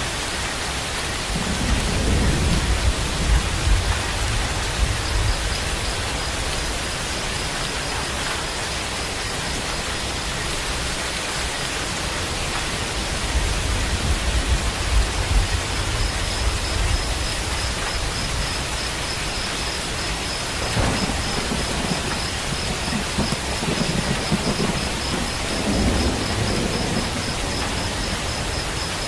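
Steady rain with low rolls of thunder swelling up three times: a few seconds in, around the middle, and again over the later part. A faint high, rapidly pulsing tone runs along with it from about five seconds in.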